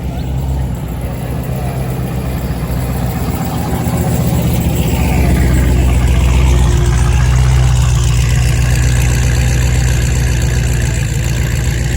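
A car engine running close by with a steady low rumble, growing louder toward the middle and easing slightly near the end.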